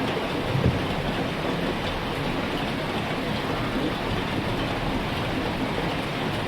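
Heavy rain falling steadily in an even hiss, with one brief low thump near the start.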